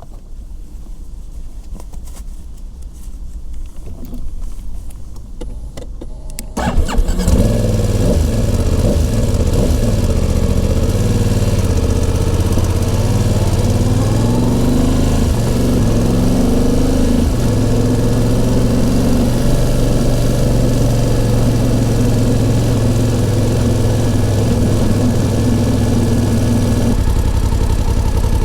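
BMW F 900 XR's parallel-twin engine starting about six and a half seconds in, after a low rumble, then settling into a steady idle with a few small changes in pitch just after it catches.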